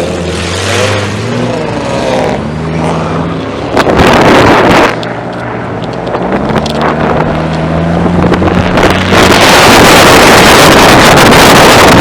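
Car engines running and revving, their pitch stepping up and down. About four seconds in there is a loud, roughly one-second blast, and from about nine seconds in a loud steady rushing noise covers everything.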